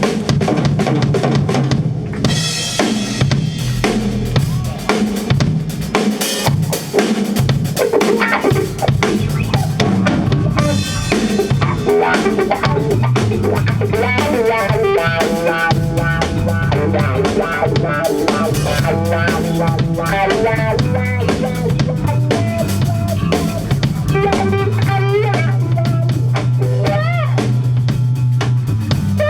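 Rock band playing an instrumental passage with no vocals: drum kit and bass under a melodic lead whose notes bend and waver.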